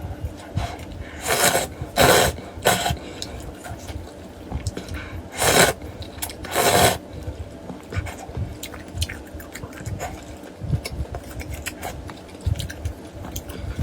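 Close-miked eating of vermicelli noodle soup: loud wet slurps of noodles and broth, three in quick succession about a second in and two more around five and a half to seven seconds in, then soft chewing and small wet mouth clicks.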